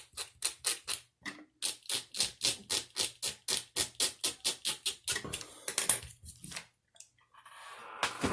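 A knife blade scraping the plastic insulation off a Toyota clock spring's flat ribbon wire in quick, even strokes, about five a second, turning irregular about five seconds in, with a longer rasp near the end.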